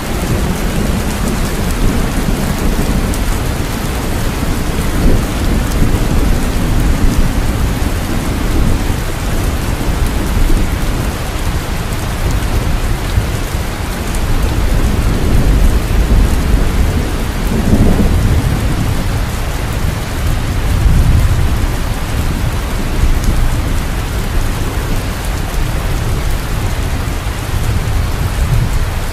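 Steady heavy rain falling, with rolling thunder rumbling low beneath it, swelling and easing several times.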